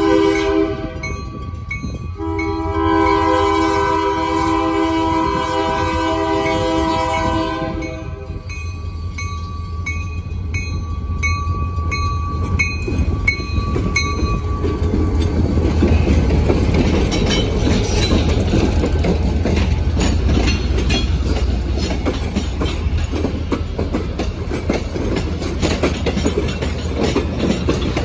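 Diesel locomotive's air horn sounds a chord in two blasts, a short one ending about half a second in and a long one of about five seconds, for a road crossing. The locomotive's engine then rumbles past, growing louder, and the train's wheels click over the rail joints as the cars roll by.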